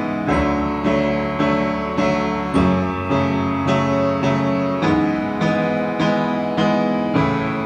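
Instrumental piano music: chords or notes struck evenly about twice a second, each ringing on until the next.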